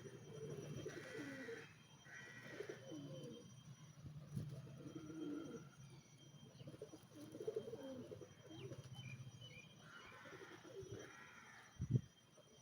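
Pigeons cooing in repeated low phrases, with a few short higher calls from other birds. A dull thump comes near the end.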